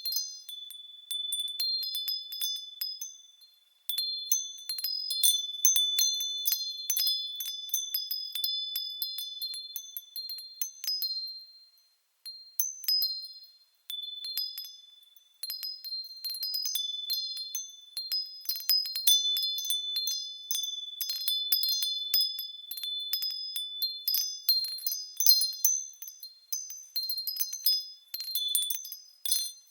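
Japanese furin wind bells ringing in the breeze: high, clear tones struck irregularly as the clapper swings, each ring fading away. The ringing dies down briefly a few times before the wind picks it up again.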